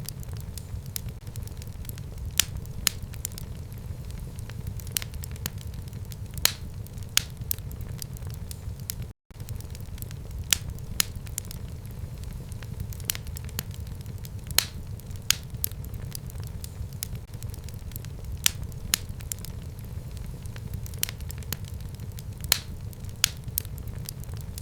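Fire burning in a home fireplace: a steady low rumble of flames with irregular sharp crackles and pops, and a split-second dropout about nine seconds in.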